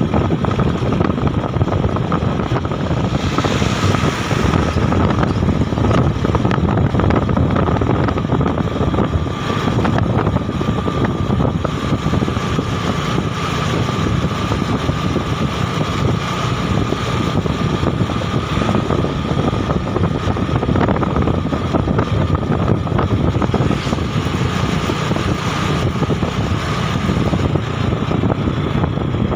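Motorbike running steadily at riding speed, with wind rushing over the microphone and a faint steady whine.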